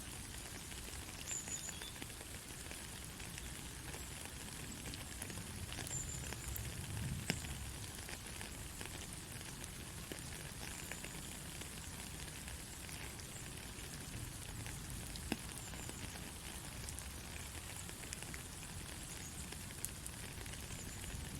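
Soft rain falling: a steady hiss with scattered sharp drop ticks, and a few short, high chirps.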